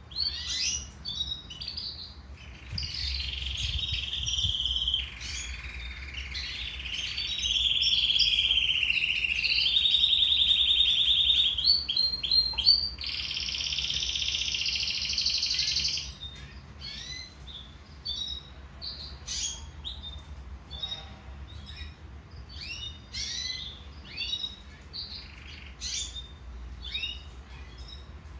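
Domestic canary singing. A string of long, rapid trills, each held for one to several seconds, is loudest in the middle. Over the last dozen seconds it gives way to short, scattered chirps and notes.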